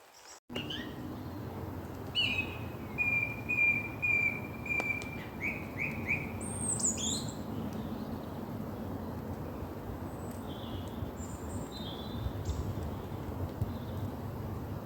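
Woodland birds singing: a run of about six repeated whistled notes, then a higher sweeping whistle, with fainter calls later, over the steady hiss of rain.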